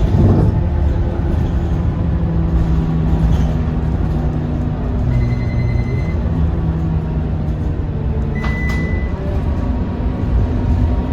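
Scania K230UB bus's five-cylinder diesel engine running while the bus drives, its note dropping briefly about five seconds in and then picking up again. Two short high beeps sound, one about five seconds in and one about eight and a half seconds in.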